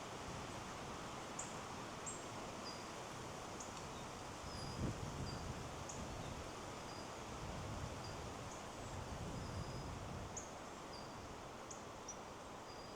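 Steady rush of wind through trees, swelling briefly about five seconds in and again near ten seconds, with small birds giving short, thin, high chirps about once a second.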